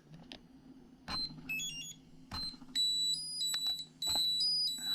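Hobby LiPo battery charger beeping: a few short electronic beeps and a quick run of stepped tones, then from about three seconds in a repeating high-pitched warbling alarm that switches back and forth between pitches. A faint steady low hum sits underneath.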